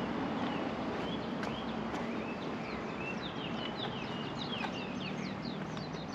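Small birds chirping: many quick, high chirps and twitters that come thicker in the second half, over a steady background hum.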